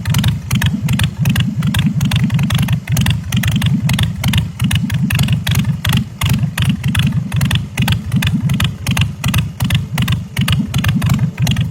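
Bourget Python chopper's 113-cubic-inch S&S V-twin engine running steadily and loud, a rapid train of exhaust pulses.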